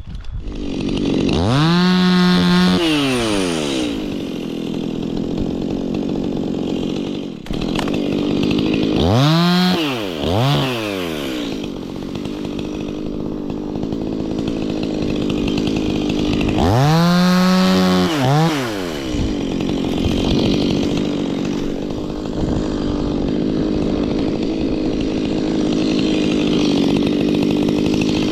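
Stihl MS 180 two-stroke chainsaw running steadily between throttle blips. It is revved up to full speed and dropped back about a second and a half in, blipped twice in quick succession around nine seconds in, and revved again around seventeen seconds in.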